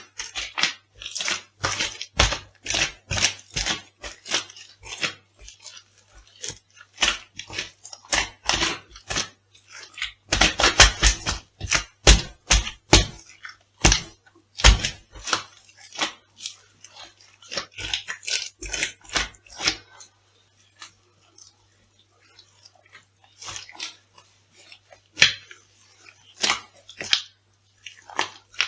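Crisp food being crushed underfoot: a dense run of sharp crackling, crunching strokes that thins out to scattered crunches for the last third.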